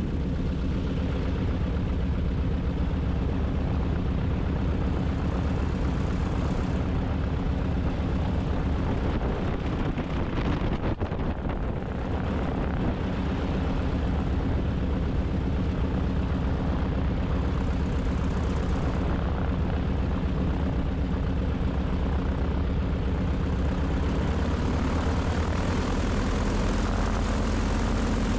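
Beech 18 twin-engine aircraft's radial engines and propellers running steadily, a constant low drone.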